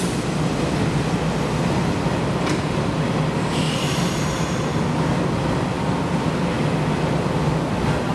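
Nishitetsu commuter train standing at the platform with a steady low hum from its running equipment. A short click comes about two and a half seconds in, and a second later a hiss of air sounds as its doors open.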